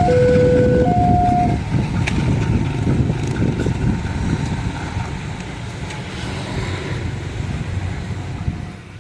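Level-crossing warning alarm sounding its alternating two-tone signal, breaking off about a second and a half in, over the low rumble of a passing train that gradually fades away.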